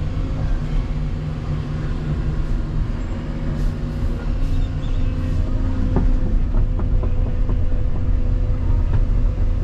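Volvo EC220EL excavator's diesel engine running steadily under work with a deep rumble, with a few light knocks about six seconds in.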